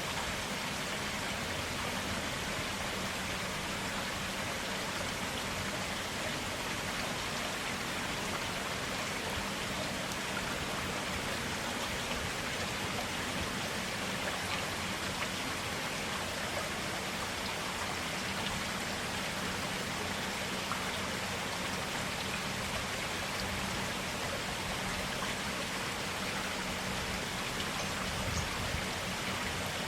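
Stream water running and splashing steadily.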